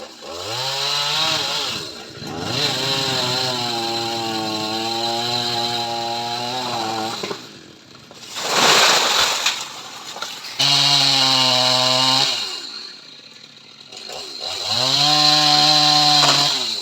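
Homemade chainsaw revving in several bursts, its engine pitch rising as the throttle opens and holding before it drops back. A short harsh rasp comes about eight seconds in.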